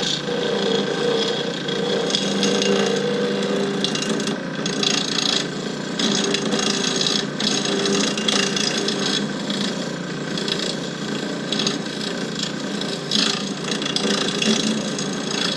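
Lathe turning tool cutting a spinning cast blank, rounding it out. The tool makes a continuous uneven chipping and scraping over the lathe's steady hum, the sign that the blank is not yet round.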